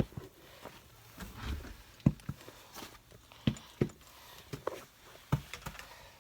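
Footsteps: irregular thumps and clicks at an uneven pace, with a few louder knocks.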